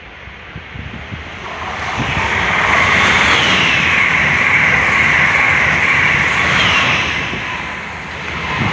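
Amtrak Acela high-speed trainset passing through a station at speed: a rushing noise of wheels on rail and displaced air with a high hiss, building over about two seconds, holding loud for about four seconds, then fading as the train recedes.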